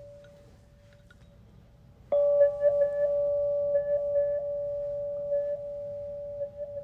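Singing bowl struck once about two seconds in, ringing on with a few overtones and a slow wavering pulse, after an earlier tone has faded almost away.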